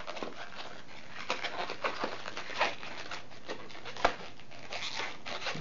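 Black latex modeling balloon squeaking and rubbing under the fingers as its two ends are stretched and tied together, with one sharp click about four seconds in.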